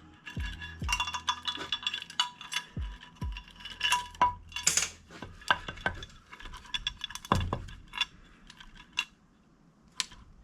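Metal engine parts and tools clinking and knocking irregularly, some with a short metallic ring, as the top end of a Kawasaki GPX 250 engine is put back together. It goes quieter near the end, with one last sharp clink.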